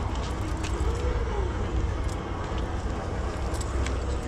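Steady low rumble of outdoor ambience, with a faint distant voice about a second in and a few light clicks.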